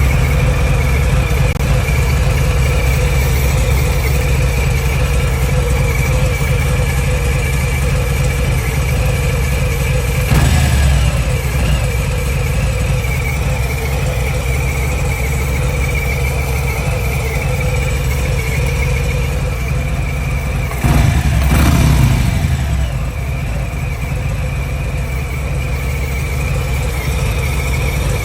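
Harley-Davidson Milwaukee-Eight 114 V-twin idling, with a steady buzzing whine over the engine note; it is blipped briefly twice, about a third and two-thirds of the way through. The owner hears the buzzing and clicking as coming from the cam area.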